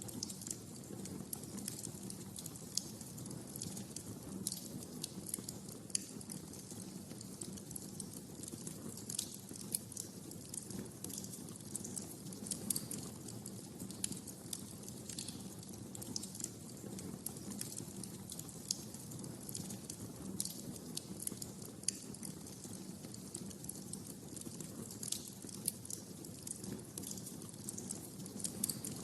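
Wood fire burning in a fireplace, with a steady low rumble of the flames and frequent sharp crackles and pops at irregular intervals.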